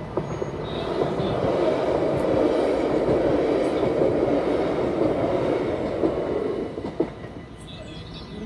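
NS Sprinter Lighttrain (SLT) electric train passing over a level crossing: a rumble of wheels on rails that builds over the first second, holds for several seconds and then dies away. Sharp clacks come near the start and again about a second before it fades.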